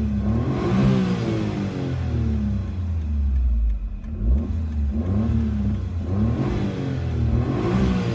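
Suzuki Alto Lapin SS's 660 cc turbocharged three-cylinder engine being revved through a Fujitsubo Power Getter aftermarket muffler. The pitch rises and falls back several times, with a lull near the middle.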